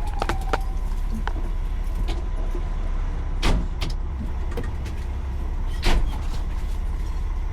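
Fire engine running with a steady low rumble heard from inside the cab. The tail of its siren winds down in the first half-second, and sharp knocks come about three and a half and six seconds in.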